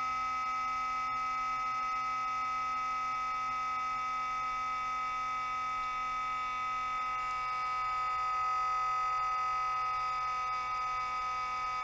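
Toshiba REGZA RD-R100 DVD recorder's cooling fan making a steady high-pitched whine that holds one pitch: the sign of a failing fan.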